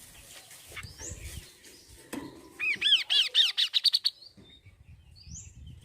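Songbird singing: a loud, fast run of arched whistled notes, each rising and falling, about halfway through, breaking into a rapid trill at its end. Short upward-sweeping calls come before and after it.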